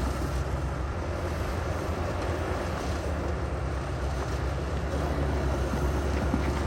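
Heavy diesel earthmoving equipment running steadily, a low, even engine rumble with no sharp impacts.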